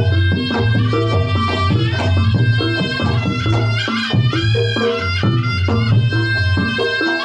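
Reog Ponorogo gamelan music: a slompret shawm plays a reedy melody with held notes and slides over kendang drums and low gong strokes.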